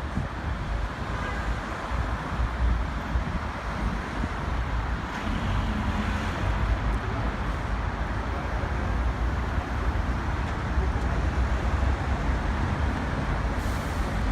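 Steady road traffic noise, a continuous low rumble of cars.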